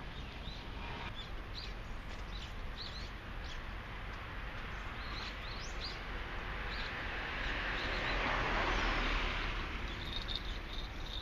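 Small birds chirping in short rising calls over steady outdoor background noise. A broad rushing swell builds about seven seconds in and fades again by ten.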